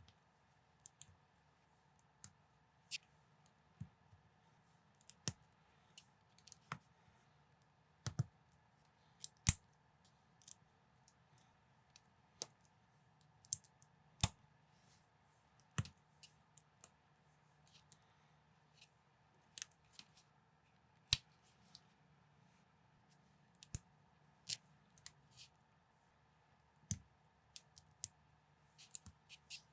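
Plastic building bricks clicking as they are handled and snapped together: sharp, irregular clicks, roughly one or two a second, over a faint steady hum.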